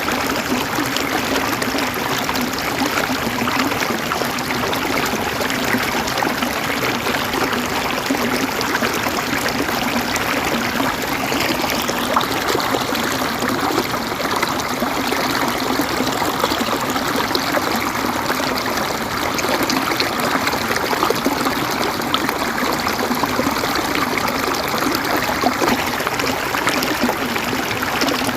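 River water flowing and gurgling over rocks, a steady splashing rush.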